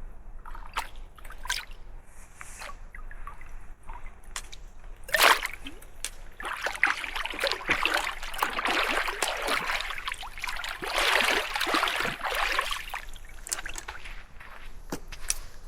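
Water splashing and sloshing as a bicycle is rinsed clean of sand in open water. A few light knocks at first, a sharp splash about five seconds in, then several seconds of continuous splashing that dies away, with a few more knocks near the end.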